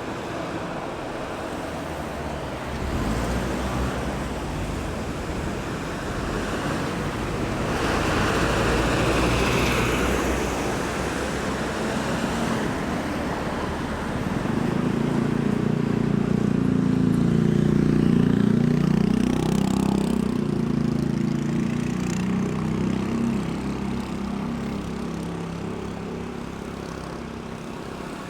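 Road traffic passing: a steady wash of engine and tyre noise, with a car going by about a third of the way in. From about halfway through, a louder, low-pitched engine sound runs for several seconds and then fades.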